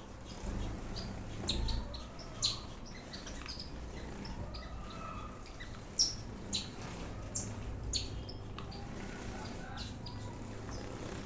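Ornamental birds chirping: short, high chirps at irregular intervals, the sharpest about six seconds in, over a low rumble.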